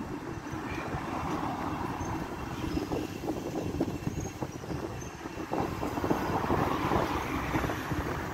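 Thameslink electric multiple unit running past, a steady rumble of wheels on the rails with many light clicks from the track.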